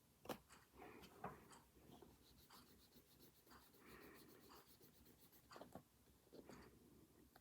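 Faint scratching of a pen writing on a notebook page, with a few light taps and clicks.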